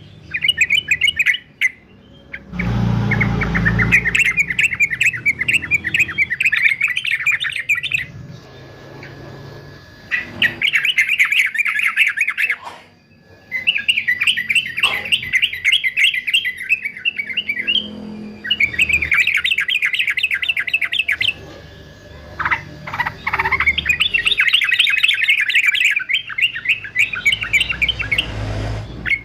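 Male yellow-vented bulbul singing in rapid chattering phrases, several bouts of a few seconds separated by short pauses. A low rumble sounds about three seconds in.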